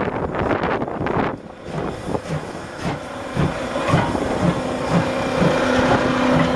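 D51 steam locomotive pulling away with a train, steam hissing and its exhaust chuffing in an even beat of about two a second.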